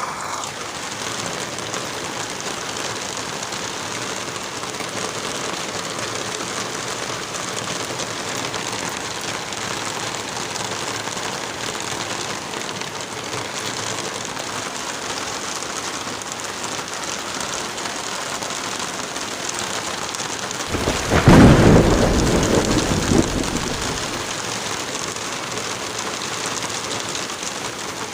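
Light rain falling in a forest with wind through the trees: a steady, even hiss. About three quarters of the way through, a deep rumble swells up, becomes the loudest sound, and dies away over about three seconds.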